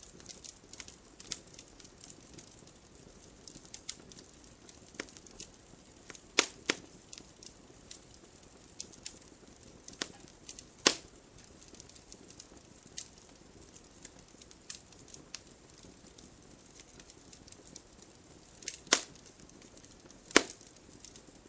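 Wood fire crackling: a soft steady hiss under frequent small irregular clicks, with a few loud sharp pops, a pair about six and a half seconds in, one near eleven seconds and two more near the end.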